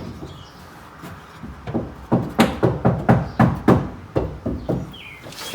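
Foil-backed sound-deadening mat being pressed and tapped down onto a car's sheet-metal floor: a quick run of about a dozen dull knocks, roughly four a second, starting about two seconds in and lasting about three seconds.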